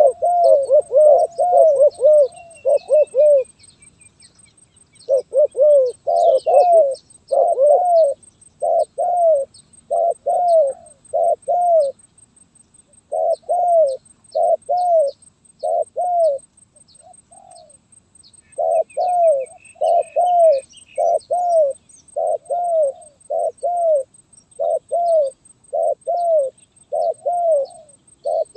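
Spotted dove (terkukur) cooing over and over in short, arched coos, mostly in pairs and runs, with brief pauses three times. This is the broken, stuttering 'gagap' call. Faint high chirps of small birds sound underneath.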